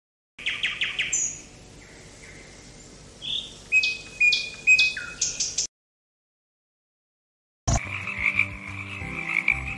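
Frogs calling: first a run of short chirps and clicks, then, after a two-second silence, a steady pulsing trill from a frog chorus.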